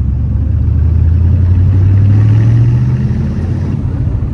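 Chevrolet 350 V8 of a 1972 Corvette accelerating under load, its note rising steadily for about three seconds, then easing off.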